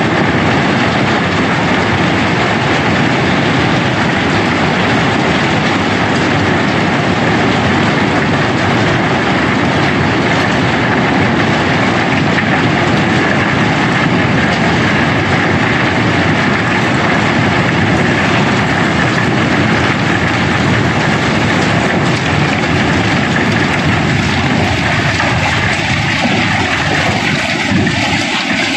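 Cobblestones pouring out in a continuous stream as a barge is unloaded: a loud, dense clatter and rumble of tumbling rocks that goes on without a break.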